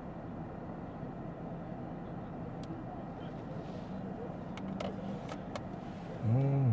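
Steady road and tyre noise heard inside the cabin of a moving 2022 Lexus ES 350 F Sport sedan, with a few faint clicks in the second half. A voice starts to hum just before the end.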